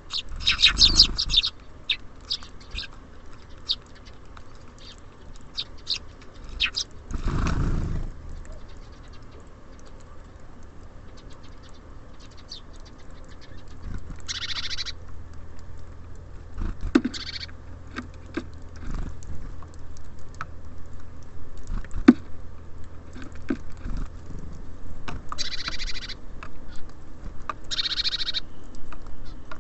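Small birds at a feeder chirping and calling in short bursts, with scattered small taps and clicks throughout and a louder rustle about seven seconds in.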